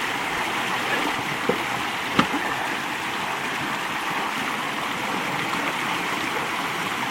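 Swollen creek water rushing steadily over and through a cinder-block dam, with two short knocks, one at about a second and a half and a louder one a little after two seconds.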